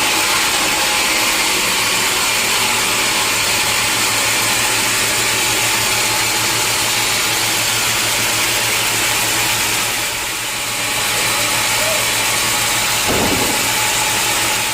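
Sawmill machinery running steadily, a loud, constant mechanical noise with a low hum underneath. A short, low-pitched sound stands out near the end.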